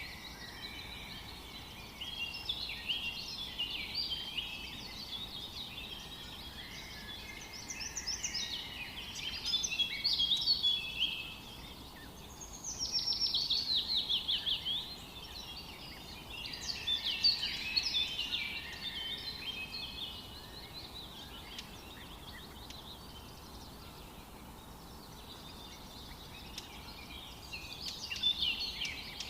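Several songbirds singing and chirping in overlapping phrases over a faint steady hiss of forest ambience. About twelve seconds in, one bird gives a loud rapid trill that falls in pitch. The singing thins out for a few seconds near the end before picking up again.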